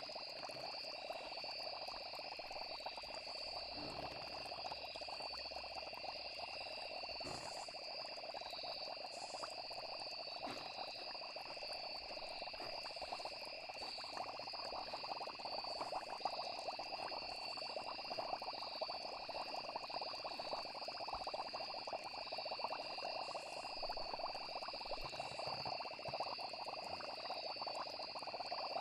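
Night nature ambience: a steady, unbroken chorus of chirping crickets and croaking frogs.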